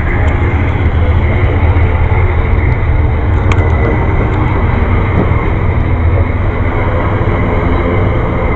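A train passing, a loud, steady rumble of wheels on the rails, with one sharp click about three and a half seconds in.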